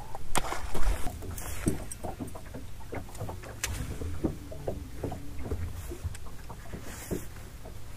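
Small waves slapping and knocking irregularly against the hull of a fishing boat, with wind rumbling on the microphone.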